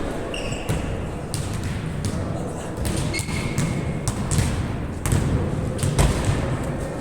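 Steady low rumbling noise with irregular thumps and faint distant voices.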